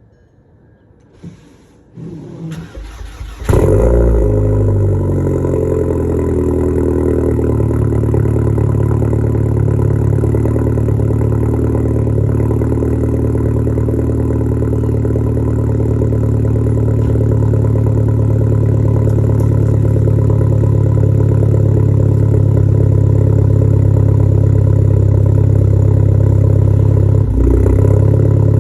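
Straight-piped engine cranked over by the starter for about a second and a half, then catching and settling into a loud, steady idle.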